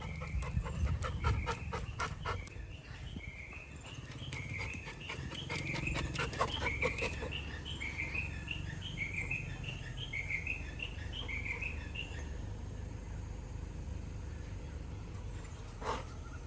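A bird repeating a short chirping call about twice a second for several seconds, over scattered light taps in the first few seconds. Near the end, a brief rising whine from the Labrador puppy.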